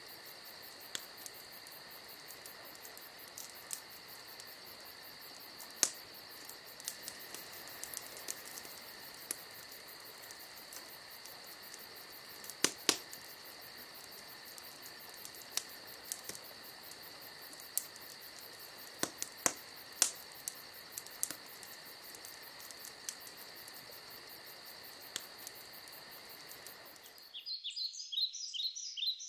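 Night ambience of crickets chirping steadily, with a few sharp crackling pops scattered through it. Near the end it cuts to birds chirping.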